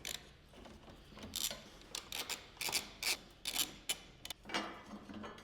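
Ratchet wrench clicking in short bursts, with metallic ticks and clinks, as the strut bar's mounting nuts are undone.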